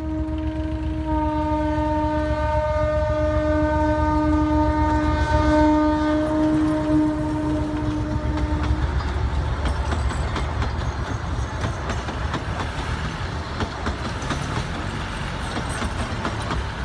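Narrow-gauge diesel locomotive sounding one long, steady horn for about nine seconds over the rumble of its engine as it passes. After that, its coaches roll by with a clatter of wheels on the rails.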